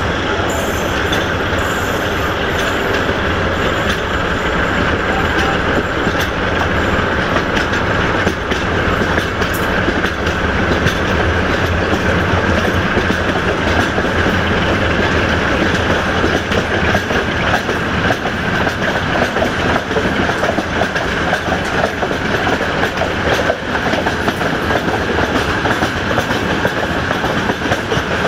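Steady running noise of a passenger train heard from an open coach window: wheels rumbling and clattering over the rail joints, with a steady low hum from the diesel locomotive at the head of the train.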